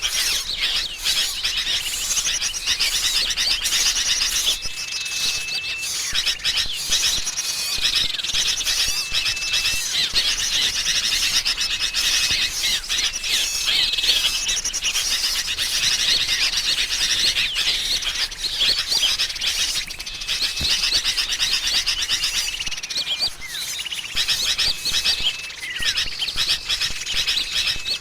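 Lure recording of a noisy sooty-headed bulbul mixed with small songbirds: dense, continuous chattering and twittering, with short level whistles repeating every second or two.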